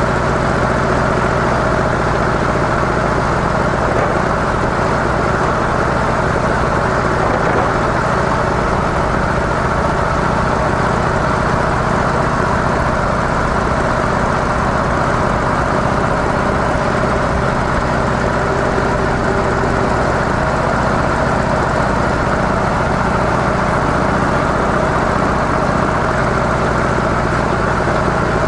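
Harley-Davidson CVO Softail Deluxe's V-twin engine running steadily through stock mufflers, with no change in pitch or level.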